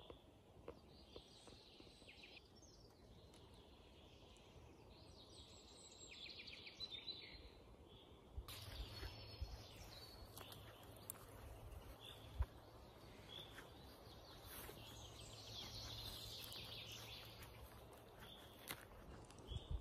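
Faint songbirds chirping and trilling in a pine forest, several calls overlapping, with a few soft knocks.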